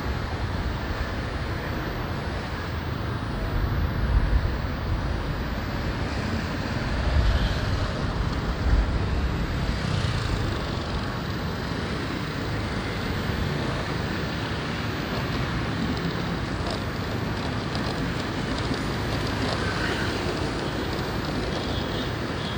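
Wind buffeting the microphone of a moving motorbike over steady traffic noise, with stronger low gusts about four seconds in and again around eight seconds.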